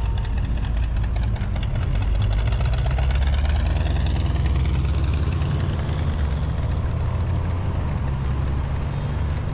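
Hot rod engine rumbling at low speed, then pulling away with its pitch rising for several seconds as it accelerates.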